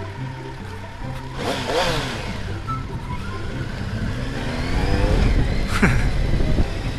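Motorcycle engine revving, its pitch climbing and falling back a couple of times, over background music.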